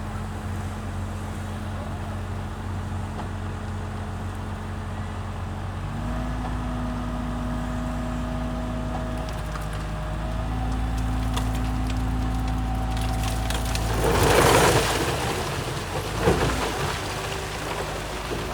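Bulldozer's diesel engine running steadily, its pitch stepping up about six seconds in and again around ten seconds as it works under load. About fourteen seconds in comes a loud crunching rush of stone being pushed, with more clattering of rock a couple of seconds later.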